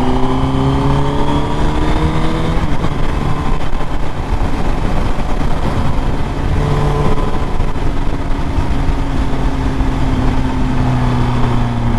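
Motorcycle engine accelerating, its pitch rising for the first two and a half seconds, then running on more steadily under a rush of road and wind noise.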